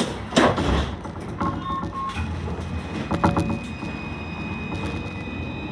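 Cabin sounds of a C Class tram at a stop: a couple of sharp clunks, a quick run of three short beeps, then a steady high tone over a low hum.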